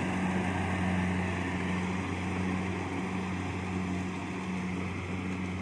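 Kubota DC70 Plus rice combine harvester running steadily while it cuts, its diesel engine giving an even, low drone.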